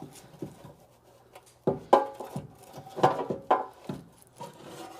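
A thin sheet-metal valve cover being worked loose and lifted off a Chevrolet Stovebolt straight-six engine. Several sharp metallic knocks, each with a short ring, come about two seconds in and again three times in the next two seconds.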